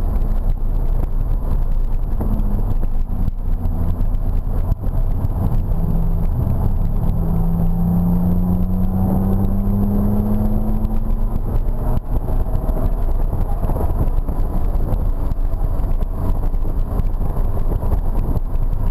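BMW E46 M3's S54 straight-six engine heard from inside the cabin, running under load over steady low road noise. Its note climbs steadily from about six to eleven seconds in as the car accelerates.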